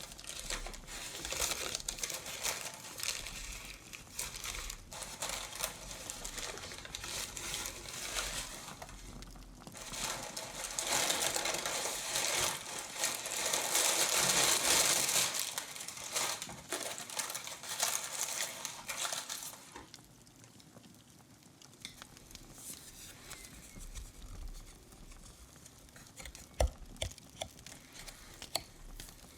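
Crinkling and rustling of wrapping being handled close to the microphone, loudest about halfway through, then dying down to a few light clicks and taps.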